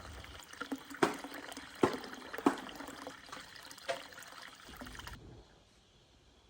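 Water being poured and trickling, with several sharp knocks among it, stopping abruptly about five seconds in.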